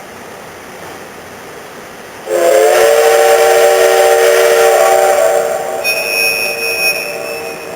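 Steam locomotive whistle blown once: a loud chord of several steady tones, held for about three seconds and then fading. Just after it, a thinner high-pitched tone sounds for about a second, over a steady rushing noise.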